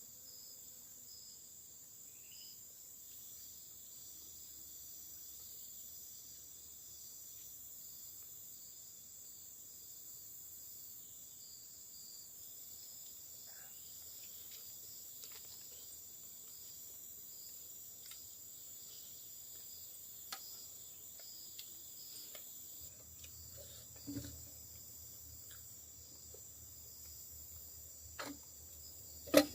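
A steady, high-pitched chorus of forest insects, with a few faint knocks and a sharp click near the end.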